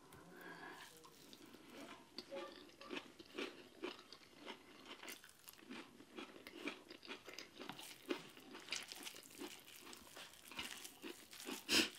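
Close-up sounds of a person chewing a mouthful of injera and cooked vegetable dishes: soft, wet chewing with many small irregular crunches and mouth clicks. A sharper, louder click comes just before the end.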